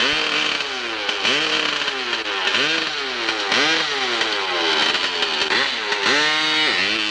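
Hillclimb racing motorcycle engine revving up and falling back again and again, roughly once every two-thirds of a second, with one longer, higher rev near the end.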